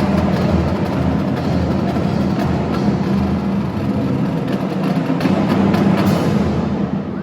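Marching band playing, with drums and percussion to the fore over a dense, steady ensemble sound; the sound dips briefly at the very end.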